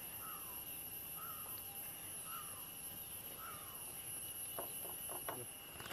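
Quiet room tone with a faint bird calling in the background: four short falling notes about a second apart. A few faint soft clicks follow near the end.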